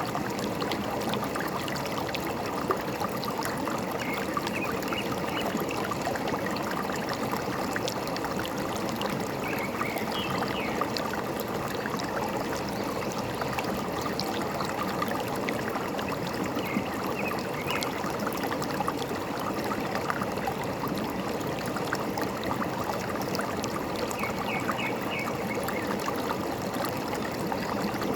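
Forest stream flowing and trickling steadily. Faint short bird calls come through four times, spaced several seconds apart.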